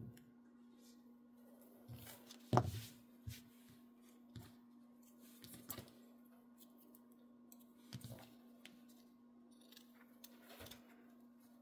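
Scattered snips and small knocks of scissors trimming fabric, spaced a second or two apart over a faint steady hum; the loudest is a sharp knock about two and a half seconds in.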